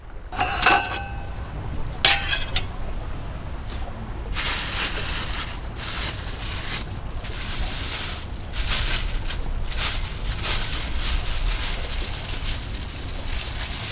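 Strong wind buffeting the microphone as a steady low rumble, with gusts of rustling, hissing noise coming and going from about four seconds in. Two short high-pitched squeaks sound in the first couple of seconds.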